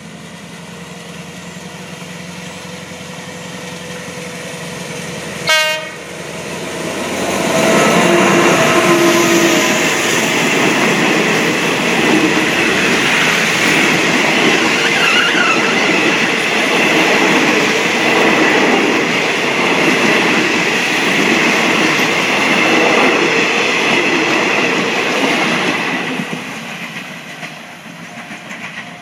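Diesel-electric locomotive with a Caterpillar 3516BHD engine approaching and growing louder, with one short sharp sound about five and a half seconds in. It passes at speed about seven seconds in, followed by the long, steady, loud clatter of passenger-coach wheels over the rail joints. The clatter fades near the end as the train draws away, with a few last wheel knocks.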